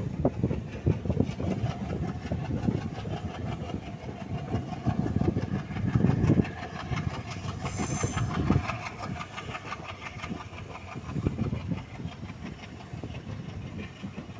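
Passenger train running on a curve, heard from an open coach doorway: the ICF coaches' wheels clatter and rattle over the rails under a steady rumble. Gusts of wind buffet the microphone, and a brief high squeal sounds about eight seconds in.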